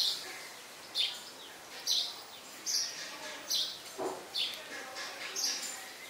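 Small birds chirping: short, high, falling chirps repeated roughly once a second.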